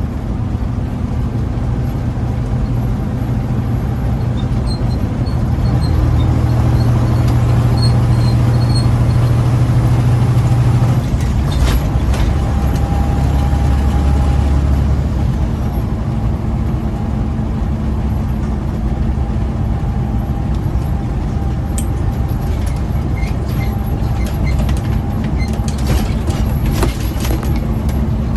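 Diesel engine of a loaded big-rig truck running under way, heard inside the cab. The engine note climbs and grows louder, then drops to a lower pitch about eleven seconds in, as at a gear change, with light rattles near the end.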